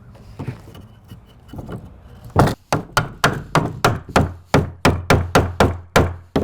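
Hammer blows on wood, likely nailing the coop's wall framing together. A few light knocks come first, then about two seconds in a fast, even run of hard strikes begins, around three to four a second.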